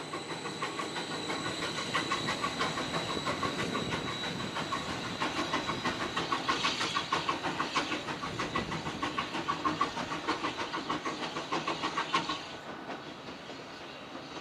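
A train running on rails, with a fast, steady rhythmic beat of about four a second and a thin high whine over it; it drops away sharply about twelve seconds in.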